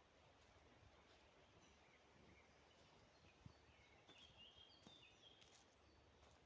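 Near silence: faint forest ambience with a few faint, high bird chirps, most of them in a short run past the middle.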